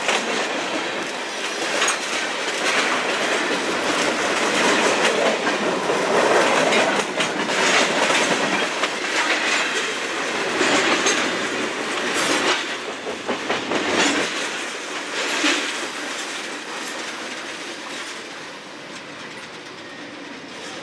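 Freight cars rolling past close by, their steel wheels knocking again and again over the rail joints. The noise fades over the last few seconds as the end of the train goes by.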